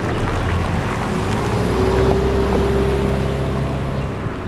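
Road traffic passing: a vehicle's engine and tyre rumble swells towards the middle and eases off near the end, with wind buffeting the camera's built-in microphone.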